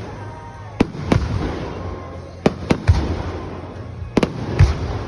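Fireworks bursting: about seven sharp bangs in three quick clusters, some followed by a deep rumbling boom.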